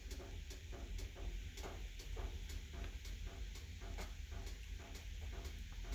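Wood fire burning inside a closed non-catalytic fireplace insert, with a steady low rumble and light ticks about twice a second.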